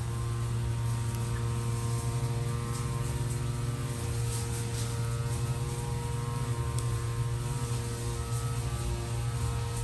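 A steady low hum with several steady higher tones above it, unchanging throughout, and a few faint short high ticks around the middle.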